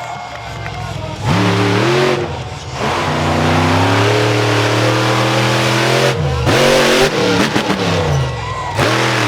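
Monster truck engine revving hard: a sudden rev a little over a second in, a long climbing rev, a brief drop about six seconds in, and another rev near the end.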